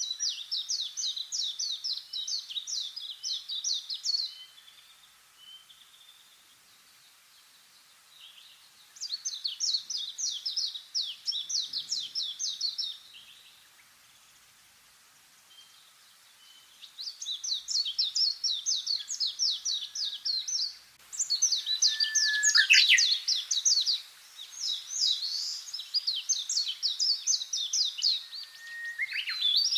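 A songbird singing rapid trills of repeated high notes, each phrase lasting about four seconds with pauses of similar length between them. About two-thirds of the way through the phrases overlap and run on with little pause, with a falling whistled note among them, as if a second bird joins in.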